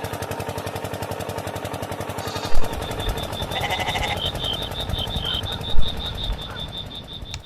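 Small engine running with a rapid, even chugging beat. About two and a half seconds in, a deeper rumble and a repeating high-pitched beep join it, with two sharp loud knocks.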